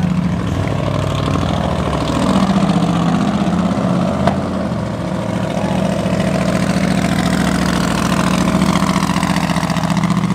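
Supercharged LS V8 of an Ultra4 race car idling loudly with a lumpy, uneven note, its pitch shifting a little about two seconds in. A single sharp click sounds about four seconds in.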